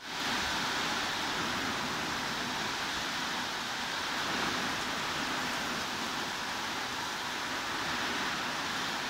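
Steady heavy rain, heard as an even, unbroken hiss. It drops out for an instant at the very start and comes back a little louder and brighter, like a splice in the track.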